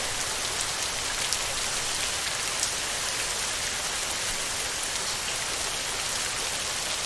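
Heavy rain falling steadily on a tin roof: a dense, even hiss of drops with a couple of louder single drop taps early on.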